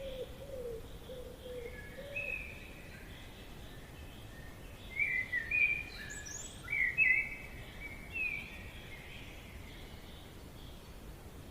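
Forest ambience: birds singing short, clear notes over a steady background hiss, the calls coming thickest and loudest about five to seven seconds in, with a run of low calls in the first two seconds.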